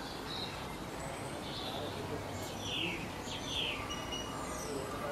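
Small birds chirping, with short calls and a few quick falling notes, over a steady outdoor background hiss.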